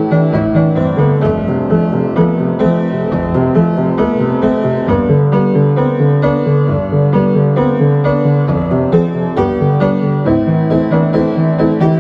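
Solo piano played live: a continuous passage of quick repeated notes over held low notes.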